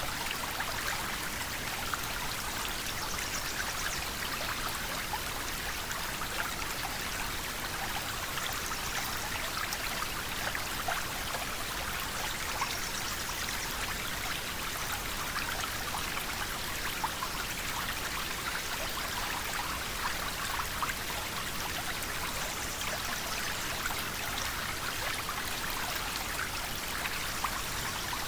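River water flowing over stones: a steady rushing babble with small splashes throughout.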